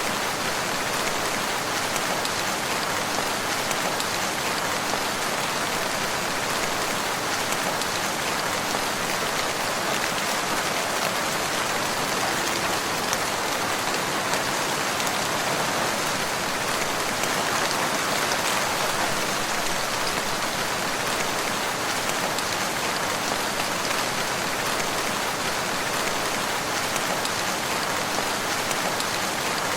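Steady, even rainfall pattering on surfaces, with no thunder.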